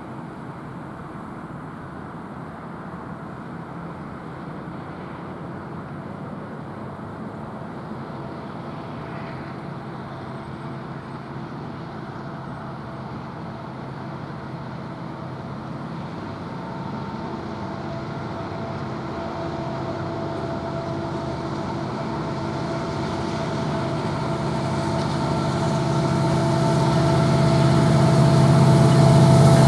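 An approaching train, its engine hum and rail rumble growing steadily louder as it draws near.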